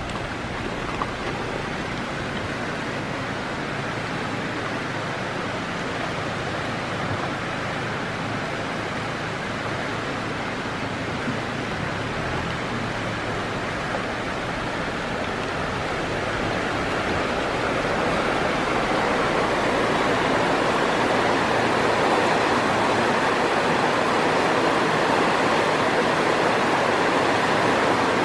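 Swollen, fast-running creek rushing steadily after heavy rain, growing louder about two-thirds of the way through.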